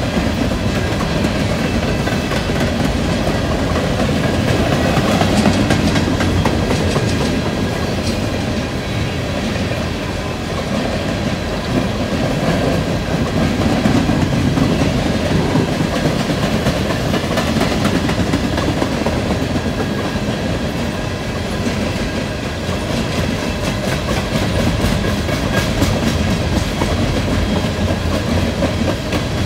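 A long freight train of CSX steel coal hoppers rolling past at speed: a steady rumble and rattle of wheels and cars, with a continual run of clicks as the wheels cross rail joints. The hoppers are thought to be running empty.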